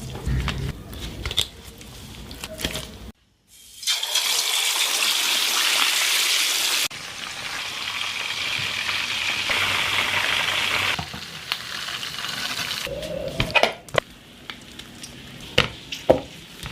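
Light clicks and knocks, then a steady hissing noise for about nine seconds that changes level abruptly at a few edits, followed by more clicks and knocks near the end.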